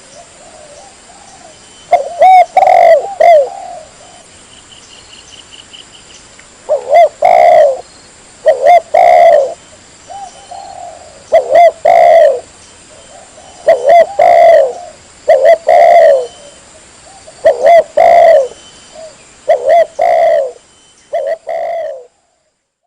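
Spotted dove (tekukur) cooing loudly and over and over, in phrases of a few coos separated by short pauses. This is the bird's clean, full song, used as a lure call. The recording cuts off suddenly near the end.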